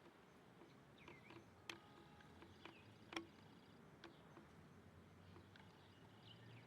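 Faint, scattered bird chirps, a few short calls that dip and rise in pitch, with several sharp clicks, the loudest about three seconds in.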